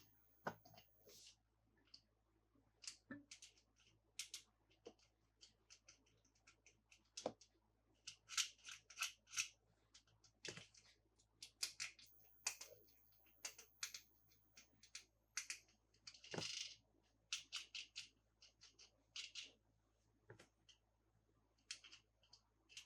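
Quiet, irregular crinkling and clicking of plastic toy packaging being handled and opened, in short crackly bursts with pauses between.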